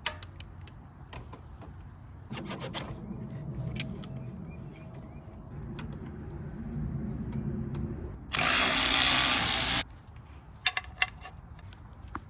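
Handheld power tool working on the radiator's fasteners: a steady motor run for several seconds, then a much louder, harsher burst of about a second and a half, with clicks of tools and parts around it.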